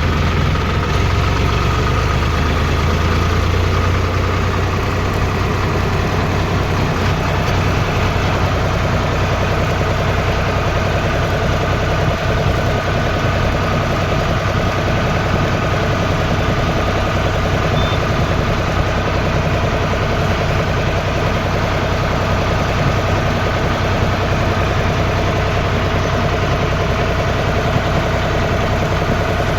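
Tractor engine running steadily with a low, even hum, easing slightly about four seconds in.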